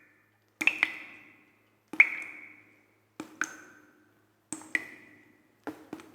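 Struck, lightly ringing percussion tones, like small chimes: about nine strikes, mostly in pairs about a quarter second apart, each ringing out and fading within a second.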